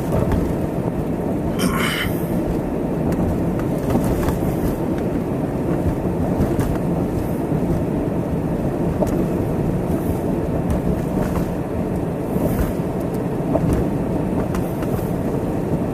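Steady car road and engine noise heard from inside the cabin while driving on snowy roads, with a brief hiss about two seconds in.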